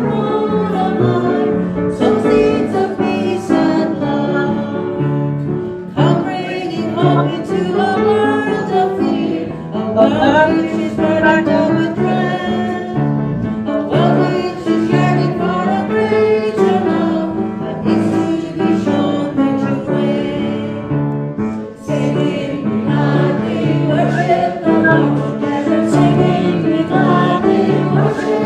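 Church congregation singing a hymn together, phrase after phrase.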